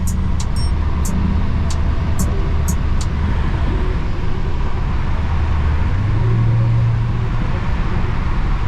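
Dodge Challenger SRT Hellcat Redeye's supercharged V8 running steadily while driving, with road noise around it; the engine note steps up briefly about six seconds in. A few sharp ticks sound in the first three seconds.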